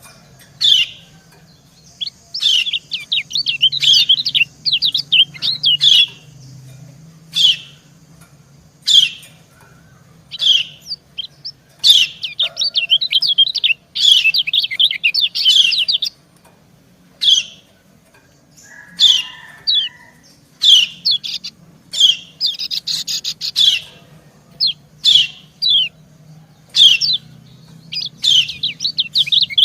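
Yellow white-eyes (kecial kuning) giving quick, high 'ciak-ciak' chirps in short bursts every second or two: a female's calls, with a male answering. A faint, low, steady hum runs underneath.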